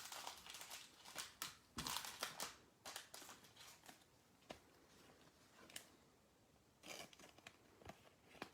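Faint crinkling and rustling of trading cards and their packaging being handled, in scattered short bursts, busiest in the first few seconds and again about seven seconds in.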